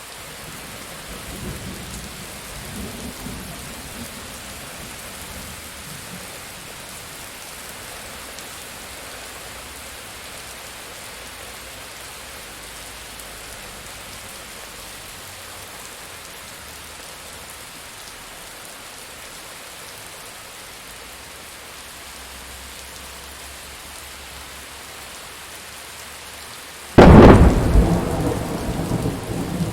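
Steady rain with a low roll of distant thunder early on, then a sudden loud, close thunderclap near the end that rumbles on.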